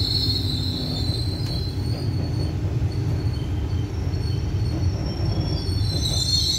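Passenger express train running, heard from the open doorway of a coach: a steady rumble of wheels on the rails, with a high-pitched squeal that fades over the first two seconds and rises again near the end.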